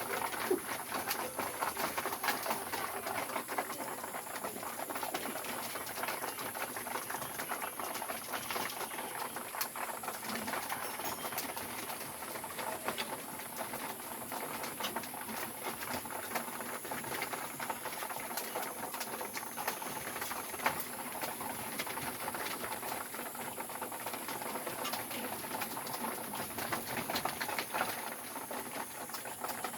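Flock of pigeons in a loft pecking at grain feed: a dense, continuous run of small clicks, taps and scuffles.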